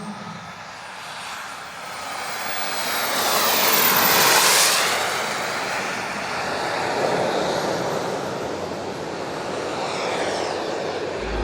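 Gas-turbine engines of large radio-controlled model jets flying past: a jet rush with a thin high turbine whine, swelling to its loudest about four and a half seconds in and then easing off, the whine dropping in pitch as the jets go by.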